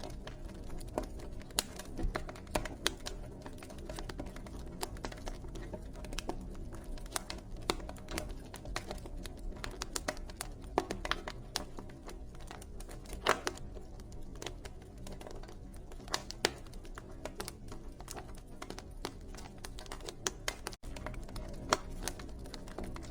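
Wood fire burning in a fireplace, crackling with irregular pops and snaps over a low rumble of the flames, a few snaps standing out louder.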